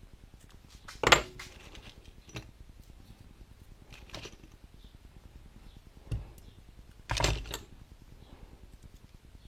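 Metal parts knocking and clattering as they are handled: a loud clank about a second in, a longer clatter about seven seconds in, and a few lighter taps between.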